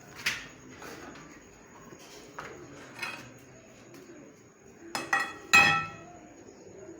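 Metal striking metal: several separate clanks, with a loud close group of strikes near the end, the last one ringing briefly.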